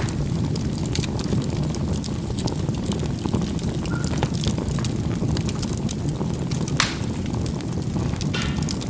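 Charcoal burning in a fireplace: a steady low rumble of flame with scattered small crackles, and one sharper pop about seven seconds in.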